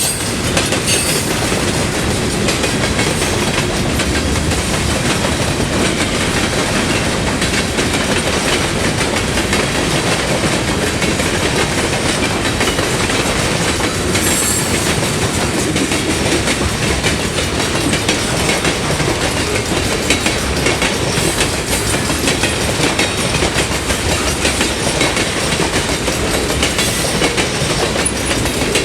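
Train cars rolling steadily past a railroad crossing, wheels clacking over the rail joints in a continuous rattle. Brief high-pitched squeals come in near the start and about halfway through.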